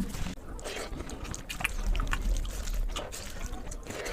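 Close-miked eating sounds: wet chewing and lip smacking with many quick irregular clicks.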